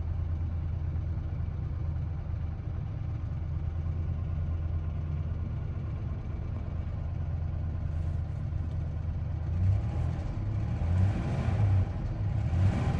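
1992 Ford Ranger engine running steadily at idle, heard from inside the cab, then revved briefly three times near the end. The owner is listening for a ticking noise he suspects is a valve lifter, though he is unsure it is anything.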